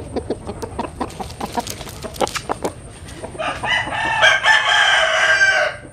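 Chickens clucking among short sharp taps, then a rooster crows once, a long loud call of about two and a half seconds starting around halfway in.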